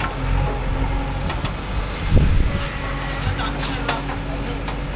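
Diesel engine of heavy farm machinery running steadily, with a low knock about two seconds in.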